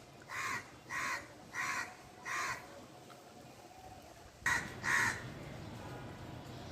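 A crow cawing: four evenly spaced caws, then after a pause of about two seconds, two louder caws in quick succession.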